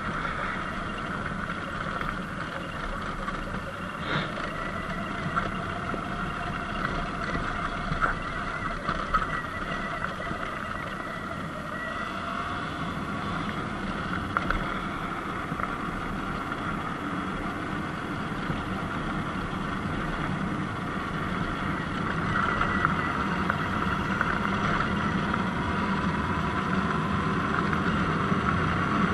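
Surron Light Bee X electric dirt bike riding along: a steady electric motor whine that drifts up and down in pitch with speed, over wind and road noise.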